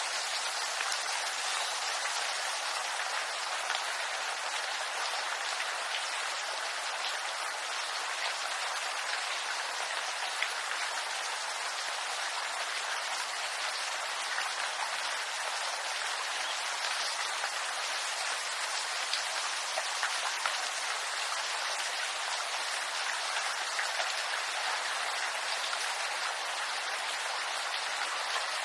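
Steady rain falling on bamboo leaves: an even hiss with scattered individual drops.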